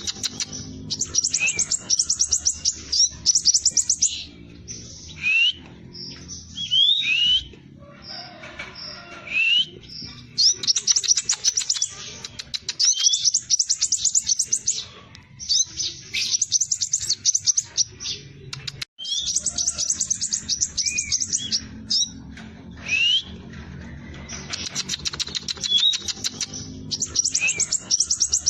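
Crimson sunbird singing fast, tight rolls: repeated high rapid-fire trills lasting a second or two each, separated by short gaps and sharp rising whistled notes.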